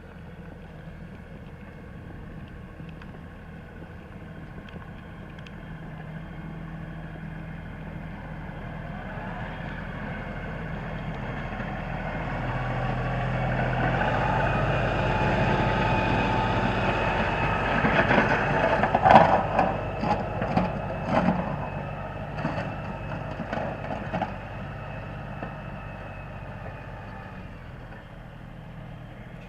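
LS tractor's diesel engine running, growing louder towards the middle and easing off near the end, with a run of sharp clanks and knocks in the louder middle stretch.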